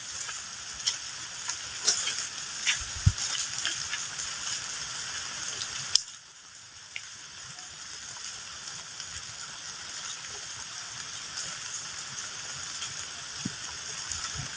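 Steady rain hiss with scattered sharp taps of drops striking close by. About six seconds in the sound drops suddenly and carries on softer, with fewer taps.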